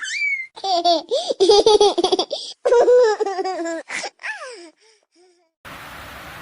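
High-pitched, childlike laughter in a run of short giggling bursts, fading out about five seconds in; steady rain noise begins near the end.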